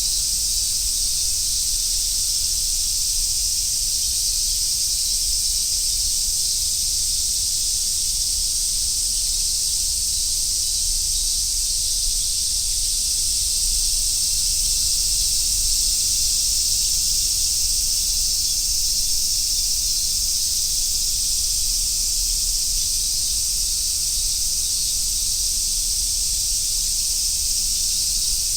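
Dense chorus of summer cicadas, a steady high sizzling drone with no breaks or pauses.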